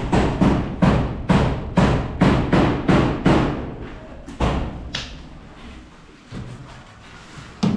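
Repeated hammer blows, about two a second, each ringing briefly. They stop about three and a half seconds in, followed by a couple of single knocks.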